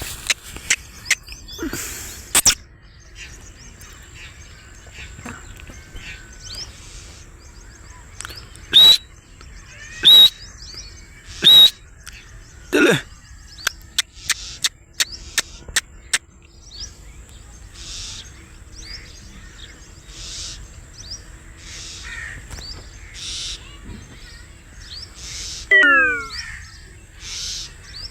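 Black francolin calling in a series of loud, harsh notes, the three loudest about a second and a half apart roughly a third of the way in, with other birds calling around it.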